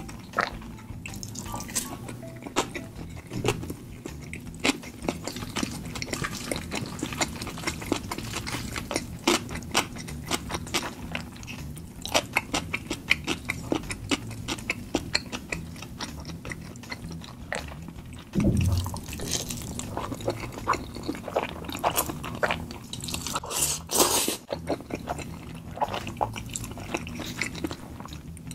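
Close-miked wet chewing and mouth sounds of someone eating tteokbokki rice cakes and ramen noodles in spicy sauce: a dense run of sharp, wet smacks and clicks. A louder, deeper thump comes about two-thirds of the way through.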